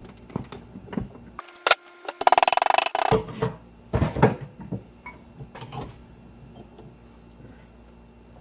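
Scattered knocks and clicks of a thin metal shim being worked by hand, with a short, loud, fast rattling buzz of a tool about two seconds in.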